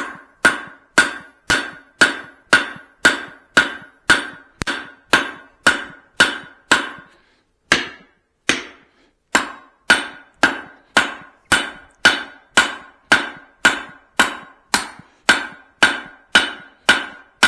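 Blacksmith's hand hammer striking a hot steel hammer head on the anvil, working the eye over a drift: steady blows about two a second, each with a short metallic ring, with a brief pause about seven seconds in.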